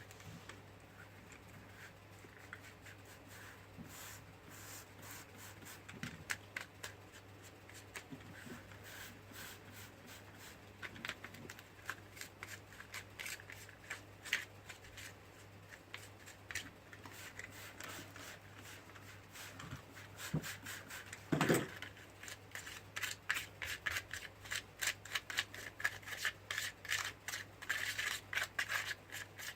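Spatula stirring and scraping a small batch of hydraulic cement (water plug) and water in a mixing container: a run of short scrapes and taps that gets quicker and busier near the end, with one louder knock about three-quarters of the way through.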